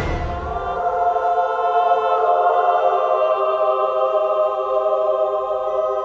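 Music: a choir singing one long held chord.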